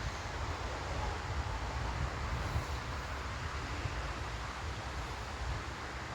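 Strong wind buffeting the microphone: a steady rush with an uneven low rumble.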